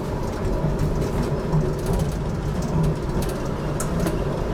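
Steady rumble of an HTM GTL8 articulated tram, heard from inside the car, with a few faint clicks.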